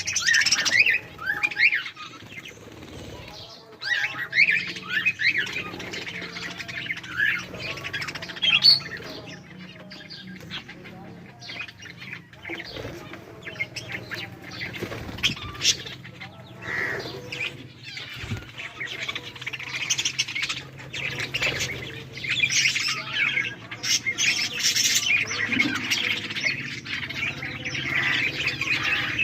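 A flock of budgerigars chattering: many overlapping chirps and squawks, busiest at the start and again in the last third, over a faint steady hum.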